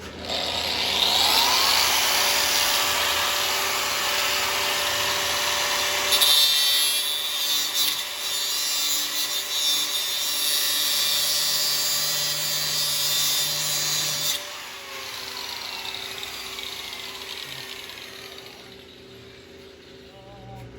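Angle grinder with a cutoff wheel spinning up and cutting metal for about fourteen seconds, then running down with a falling whine.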